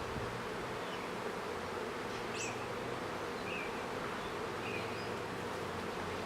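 A honeybee colony buzzing steadily: the dense, even hum of many bees around an opened hive.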